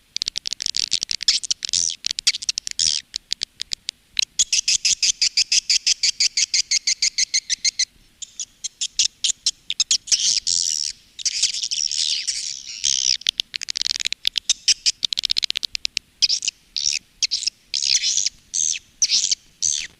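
Swiftlet lure call recording: rapid, high twittering chirps, with an even run of about ten chirps a second a few seconds in and denser twittering later. The sound is played through tweeters to draw swiftlets into a nesting house.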